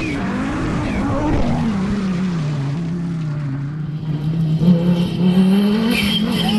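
Rally car engine revving up and down, its note dipping in the middle and climbing again. It gets louder and rougher from about four seconds in.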